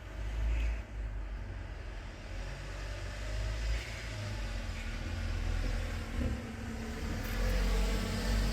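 Steady low rumble with an even hiss above it.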